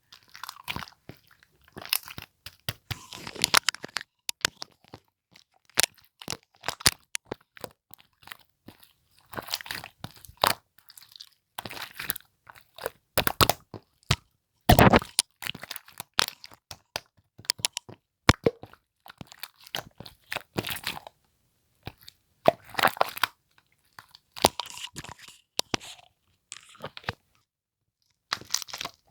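Slime being squished, pressed and stretched by hand, giving sharp crackling and popping clicks. The clicks come in irregular bursts a second or two long, with short pauses between.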